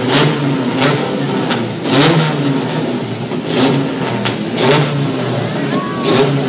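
Several race cars' engines idling and being revved on the starting grid just before the flag drops, with the revs swelling up and down.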